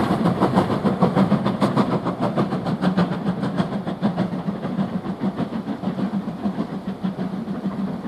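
Steam train running past and fading into the distance, with a quick, regular beat of several pulses a second.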